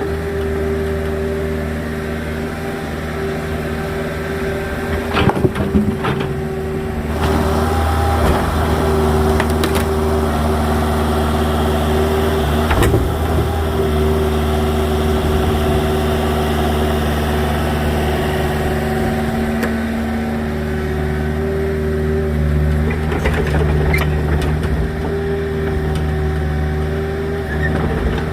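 Small agricultural excavator's engine running steadily, with a few sharp knocks and clatters over it.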